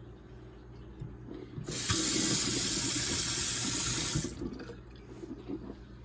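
Water running from a tap for about two and a half seconds, starting a little under two seconds in and shutting off near the end, with light knocks and clatter around it.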